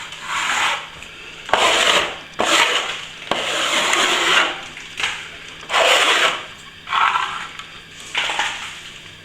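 A blade scraping back fresh plaster that has begun to firm up, in about eight rasping strokes of half a second to a second each.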